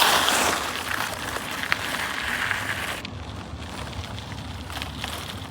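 Bicycle tyres rolling over gravel: a steady rough noise with wind on the microphone, dropping in level about three seconds in.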